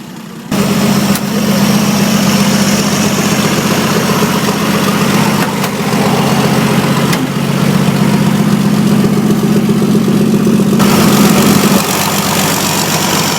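1950s Chevrolet straight-six engine in a Learjet-bodied hot rod, idling steadily. It comes in suddenly about half a second in.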